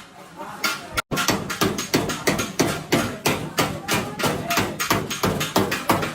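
Hammer blows on a car's sheet-metal body panel during panel beating: a fast, even run of ringing strikes, about four a second, with a brief break about a second in.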